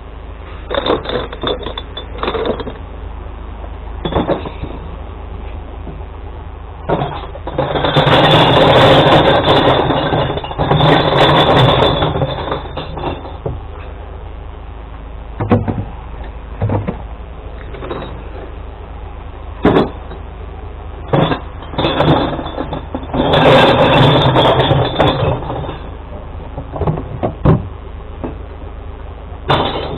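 Glass-collection truck running with a steady low engine hum, broken by two long loud noisy spells, one of about five seconds and one of about two, and scattered knocks and clunks.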